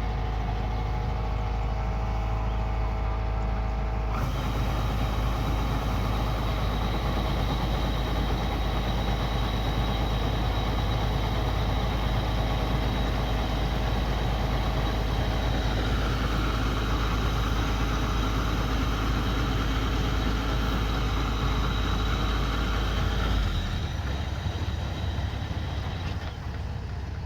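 Kubota combine harvester running steadily under load: a constant engine hum with machinery noise from the cutting and threshing. About four seconds in, the sound broadens into a fuller, hissier machine noise, and it eases off slightly near the end.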